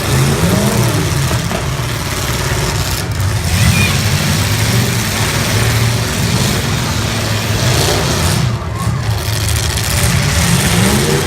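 Engines of several full-size demolition derby cars running loud and revving up and down together, over a constant roar of noise.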